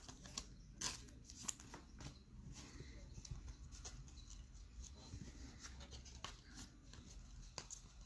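Faint clicks and light scraping of trading cards and pack wrappers being handled, with a few sharper ticks about a second in and near the end.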